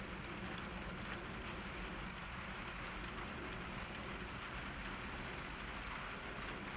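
Steady summer rain falling on a garden, a continuous even patter with faint scattered drop ticks.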